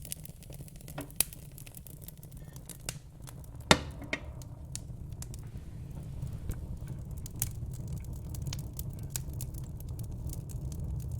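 Wood fire in a fire pit crackling: scattered sharp pops and snaps over a steady low rumble, with one loud pop nearly four seconds in.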